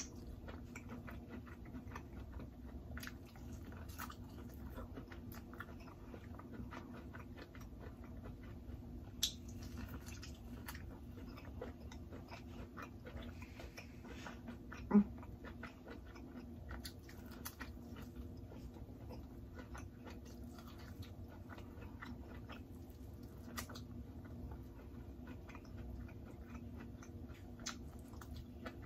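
Close-miked eating of seafood-boil corn on the cob: soft chewing, biting and lip-smacking, with scattered small wet clicks. There is a sharper click about fifteen seconds in, and a faint steady hum underneath.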